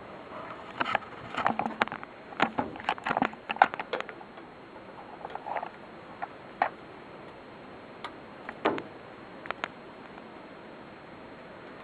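Irregular knocks and clatter over a steady background noise during a test of an old Westinghouse pedestal sump pump with a styrofoam float. The knocks come thickest in the first few seconds, then sparser.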